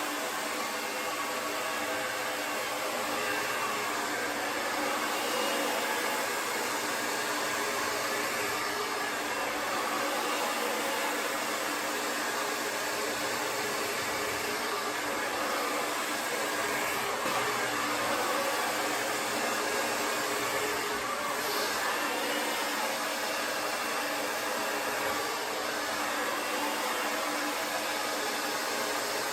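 Conair Testarossa 1875-watt AC-motor hair dryer running steadily on its highest heat setting, a constant rush of air and motor hum.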